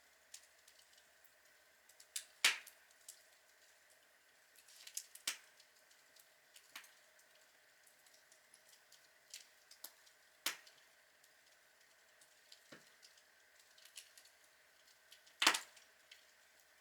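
Outdoor log fire crackling: irregular sharp pops and snaps over a faint steady hiss, the two loudest pops about two and a half seconds in and near the end.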